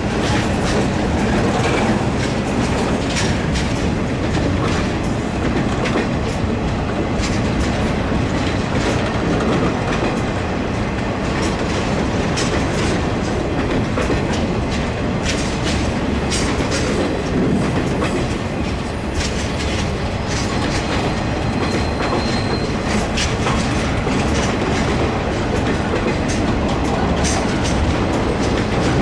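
Freight train of boxcars rolling past: a steady rumble of steel wheels on rail, with repeated clicks and clanks as the wheels cross rail joints. A brief faint high tone comes about two-thirds through.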